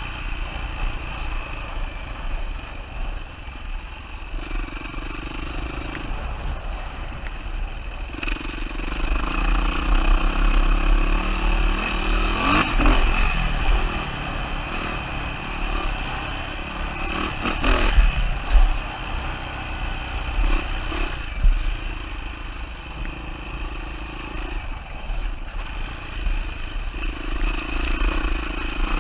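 2007 Yamaha WR450 single-cylinder four-stroke enduro engine running on a rough trail, its revs rising and falling with the throttle, with clatter and knocks from the bike over rocks, loudest about twelve and eighteen seconds in.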